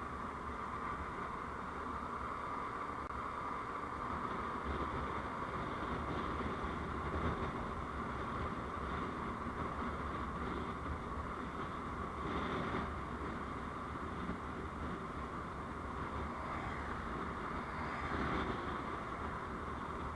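Steady road and vehicle noise on the move, recorded by a dash camera, with brief louder swells about twelve and eighteen seconds in.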